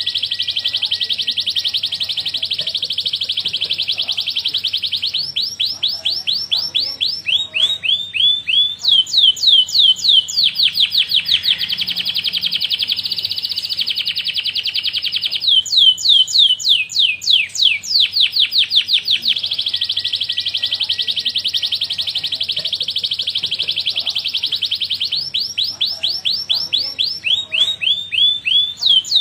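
Domestic canary singing a long, unbroken song. Fast, buzzy rolls alternate with phrases of quickly repeated down-slurred notes, about ten a second.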